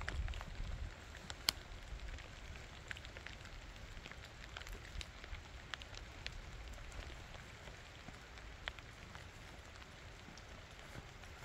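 Rain falling, with scattered drops tapping irregularly and a sharper tap about one and a half seconds in.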